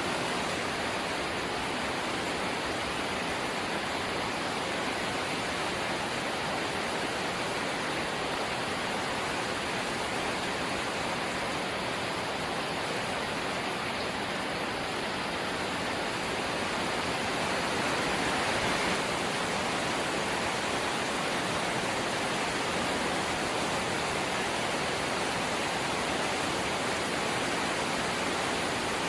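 Light rain falling, a steady even hiss that grows a little louder a bit past halfway.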